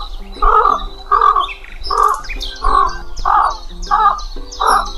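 A bird giving a steady series of harsh, cawing calls, roughly three every two seconds, with fainter high chirps of smaller birds above them.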